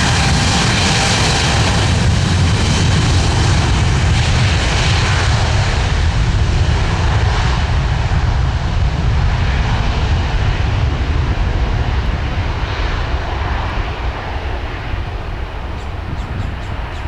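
Jet airliner's engines, loud and steady with a faint high whine, then fading over the last few seconds as the plane moves away and its high-pitched hiss drops off.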